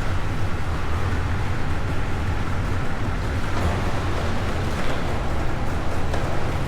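Motorboat engine running at a steady speed, a constant low drone under wind and rushing water.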